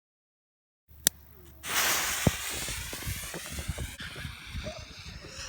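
Ring shell firework rocket launching: dead silence for about a second, a sharp click, then a loud hiss starting about half a second later that fades over the next couple of seconds as the rocket climbs.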